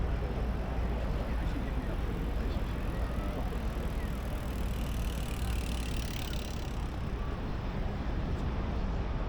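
City street ambience: steady traffic noise with a low rumble, and a hiss that swells about halfway through and fades as a vehicle passes.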